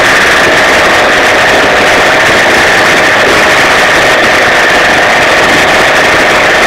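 50cc two-stroke moped engine fitted with a complete Pro Race kit, running loud and steady at an even pitch.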